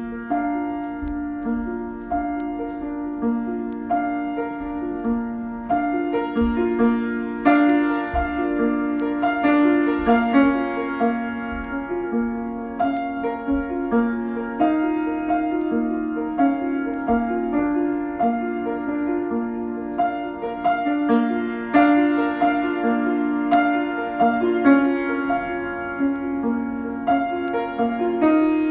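Solo piano improvisation: a continuous flow of struck notes and held chords, mostly in the middle register.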